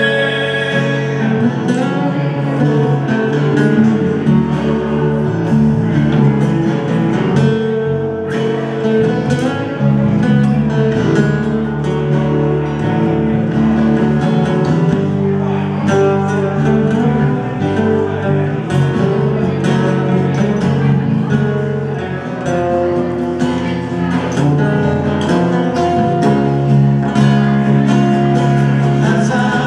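Live band playing an instrumental passage with strummed guitar to the fore.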